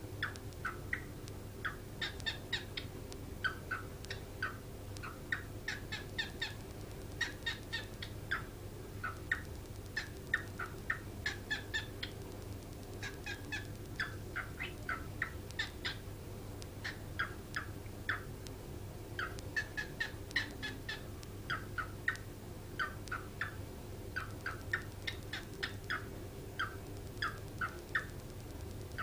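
Pet bird chattering: quick runs of short, sharp chirps and clicks in clusters of several calls, with brief pauses between, over a steady low hum.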